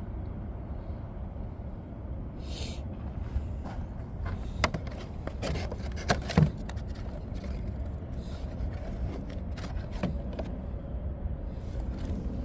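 Small clicks, knocks and scrapes of parts and tools being handled while an oil filter is readied, over a steady low rumble. There is a short hiss about two and a half seconds in, and the loudest knock comes about halfway through.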